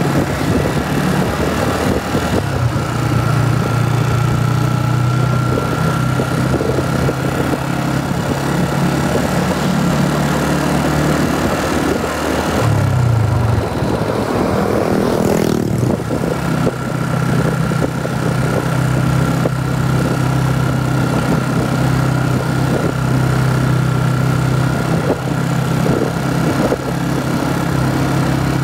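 Motorcycle engine running steadily at cruising speed, heard from the rider's seat. About halfway through, the engine note briefly shifts in pitch, then settles back to a steady run.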